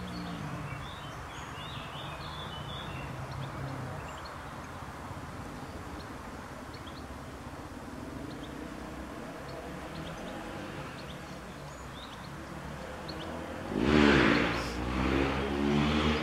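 Car traffic passing on a nearby road: one vehicle's engine drops in pitch as it goes by just after the start, then a louder vehicle comes past about 14 seconds in, with a few small bird chirps between.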